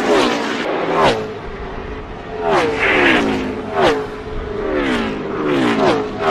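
Gen 6 NASCAR stock cars' V8 engines at full throttle passing close by one after another, about five times, each engine note dropping sharply in pitch as the car goes past.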